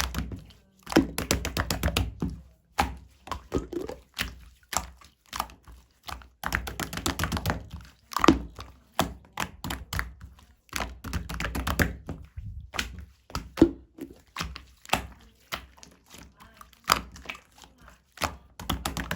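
Slime being squeezed, poked and stretched by hand, making irregular runs of sharp clicks and pops mixed with soft thuds.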